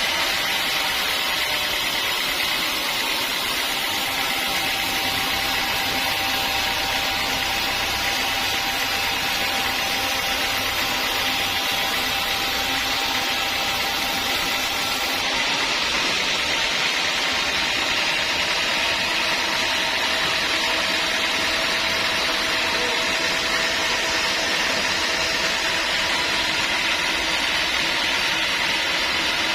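Sawmill saw running steadily as it cuts through a large teak log, a continuous mechanical noise with a faint steady whine.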